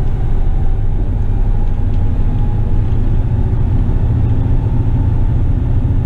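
Western Star tipper truck's diesel engine running steadily on the road with a load of soil aboard: a continuous low drone.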